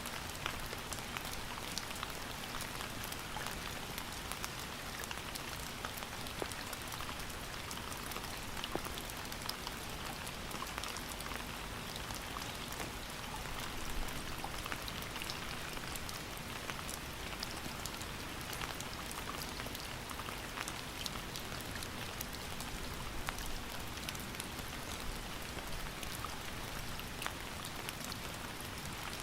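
Steady rain falling on a surface, a dense even hiss with many single drops ticking through it.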